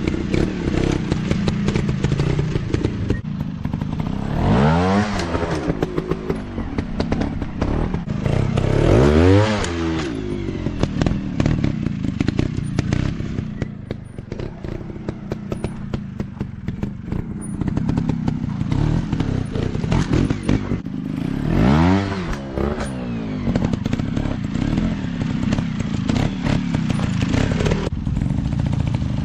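Off-road dirt bike engine running, revving up and back down three times, with rattling knocks and thumps from the ride over rough ground throughout.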